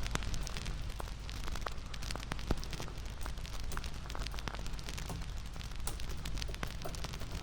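Crackling campfire: irregular small pops and snaps over a low rumble of burning wood, with one louder snap about two and a half seconds in.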